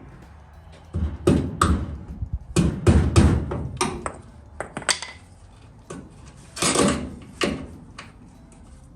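A hammer striking a chisel: a dozen or so sharp blows at an irregular pace, in short flurries with pauses between them.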